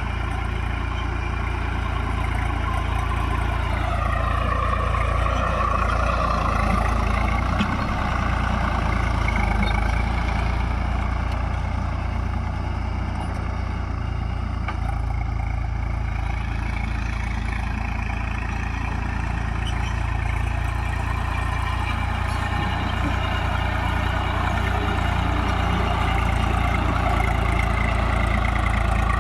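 Tractor engine running steadily, its pitch rising about four seconds in and then holding.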